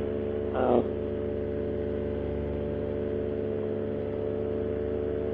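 Paramotor engine and propeller running steadily at cruise in flight, an even drone with no change in pitch. The repaired, rebalanced propeller is running smoothly.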